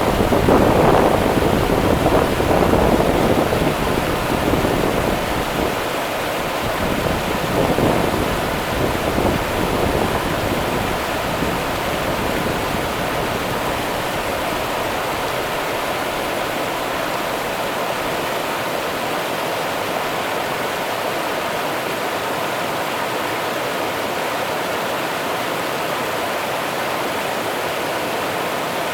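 Rio Grande river water rushing steadily in a dense, even hiss. For the first several seconds louder low gusts rumble under it, then die away and leave the water level and unchanging.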